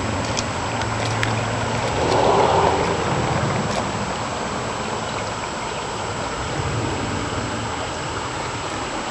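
Floodwater rushing down a driveway: a steady rushing, with a brief louder swell about two seconds in.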